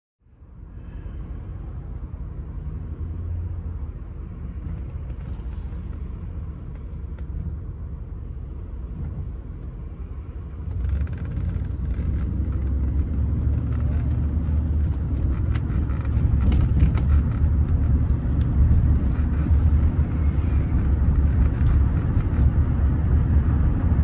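Low rumble of the Rolls-Royce Silver Spirit III's engine and running gear heard from inside the car, getting louder about eleven seconds in and again near sixteen seconds as the car gets under way, with scattered light clicks and knocks.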